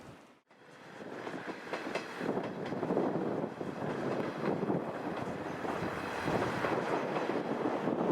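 A train running past, a steady rumble that builds over the first few seconds after a brief cut, then holds.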